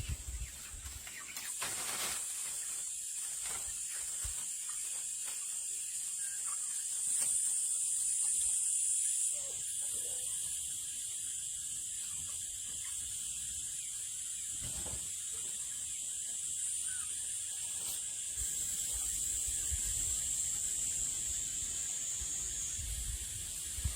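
A steady high-pitched hiss that grows louder for a few seconds about seven seconds in and again for several seconds near the end, with faint scattered knocks underneath.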